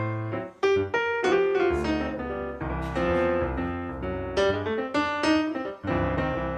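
Background piano music: a light melody of quick, repeated notes with no voice.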